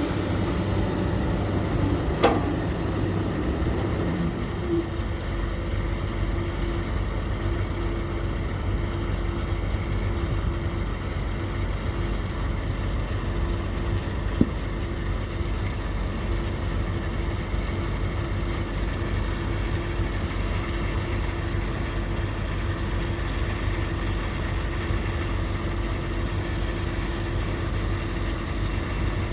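Earthmoving machine's engine running steadily at a low idle, with two sharp knocks, one about two seconds in and another near the middle.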